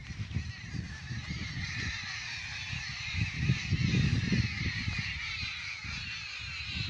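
A dense chorus of many birds chirping together without a pause. Low rumbling knocks sit underneath, loudest about halfway through.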